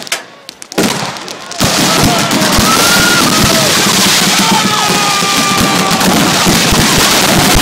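Fireworks going off in a rapid barrage: a few scattered pops, then about a second and a half in a sudden, continuous dense crackling with many sharp bangs and wavering whistles.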